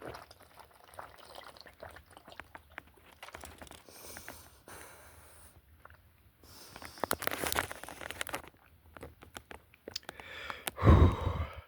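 Rustling, crinkling and small clicks of handling and movement, with a louder thump near the end.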